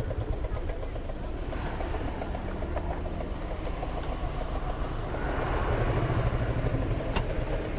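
A small engine running steadily, its firing pulses even and unbroken.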